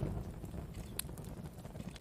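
Wood fire burning with a low steady rumble of flames and scattered sharp crackles and pops, one louder snap about a second in.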